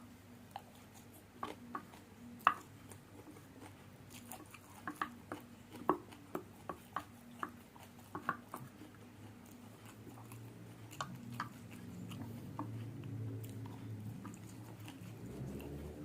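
Close-miked eating of spicy fried noodles: wet chewing with a series of sharp lip smacks and mouth clicks, then a low, steady hum building over the last few seconds.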